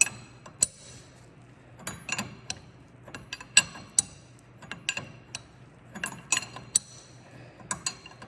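Hand wrenches clinking on the new strut's top nut and shaft: a string of sharp, irregular metallic clicks with a short ring, some in quick pairs and clusters, as the top nut is tightened down.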